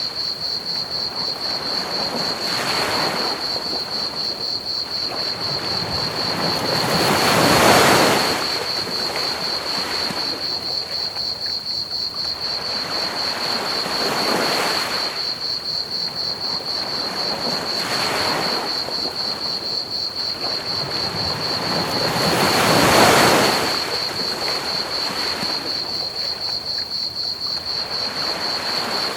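Ocean waves washing onto a beach in slow surges every few seconds, two of them clearly bigger, over a steady pulsing trill of crickets chirping and a constant hiss of pink noise.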